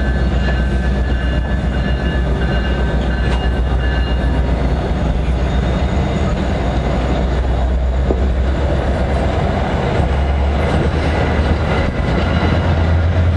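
NJ Transit commuter train's passenger coaches rolling past close by as the train pulls out of the station: a steady rumble of wheels on rail over a low hum, without a break.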